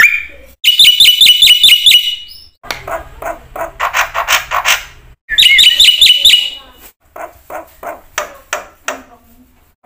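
Black-winged starling singing: bursts of rapid, evenly repeated ringing whistles, about five a second, alternating with stretches of harsh, grating chatter.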